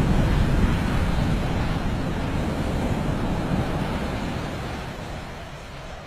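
Wind rushing and buffeting over the microphone of a camera carried on a flying falcon's back, a loud low rush that gradually dies down near the end.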